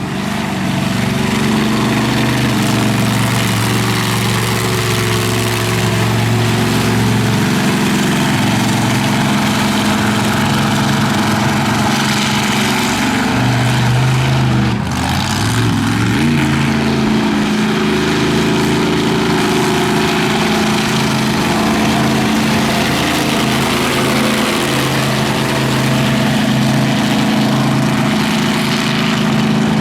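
Monster truck engines running at a steady idle, with a brief dip and change in pitch about halfway through before settling again.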